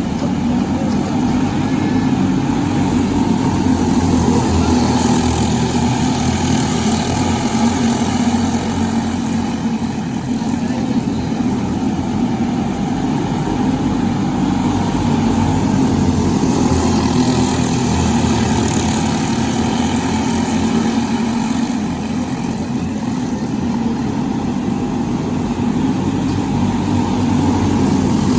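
Briggs & Stratton LO206 single-cylinder four-stroke kart engine running on track, its revs rising and falling slightly.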